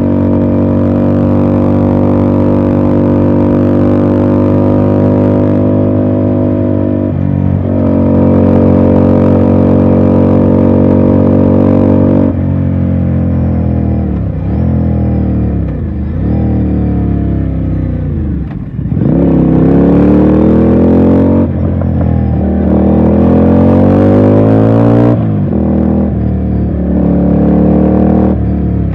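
Ducati Scrambler's air-cooled L-twin engine under way. It holds a steady cruise for the first dozen seconds, then the revs rise and drop again and again, about every two seconds, as the rider works through the gears.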